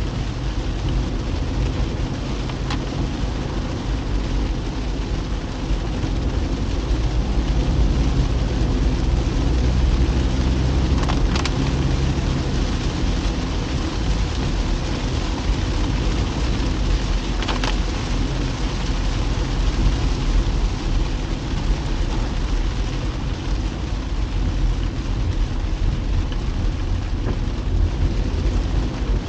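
A car driving in the rain: steady engine hum and tyre noise on a wet road, mixed with rain. Two brief ticks are heard, about 11 and 17 seconds in.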